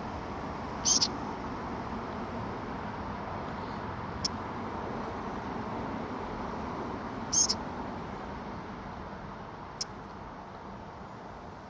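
A bird gives four short, high chirps spaced a few seconds apart over a steady rushing background noise. Two of the chirps are louder than the others.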